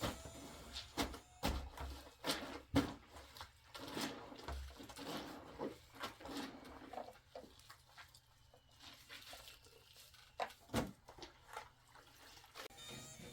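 A series of irregular knocks and clicks, as of objects being handled and set down, busiest in the first half and with one sharp knock near the end.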